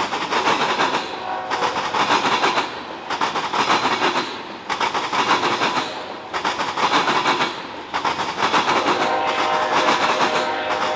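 Freight train's cars pounding across a railroad diamond crossing: heavy, rapid clacks of steel wheels over the crossing's frogs, coming in loud groups about every second and a half as each set of trucks crosses. A metallic ringing tone joins in near the end.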